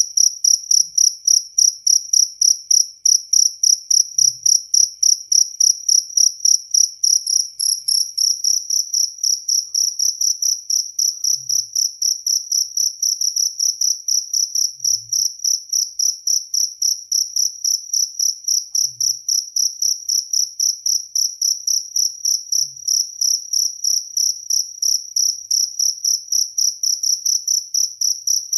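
Jaliteng cricket singing: a shrill, steady train of rapid chirps, about three a second, quickening slightly about eight seconds in.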